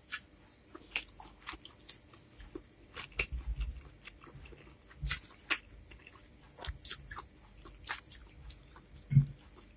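Close-miked wet chewing and lip-smacking of spicy fried instant noodles, with many short mouth clicks. A dull knock just after nine seconds in is the loudest sound.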